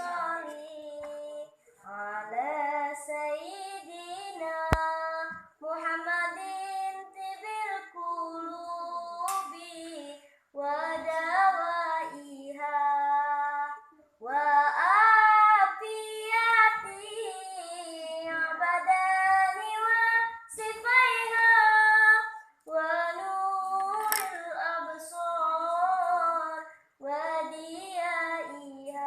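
A child singing solo and unaccompanied, in melodic phrases with breaks for breath between them.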